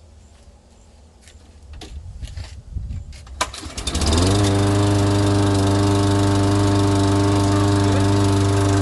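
Lawn mower's small engine being started: a few seconds of quiet handling noise and a sharp click, then the engine catches about four seconds in and settles into a steady, even run.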